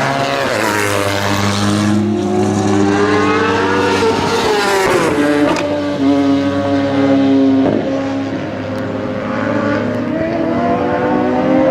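Superbike racing motorcycle engines at full race pace, their pitch climbing under acceleration and dropping sharply as they brake and downshift, once about five seconds in and again near eight seconds.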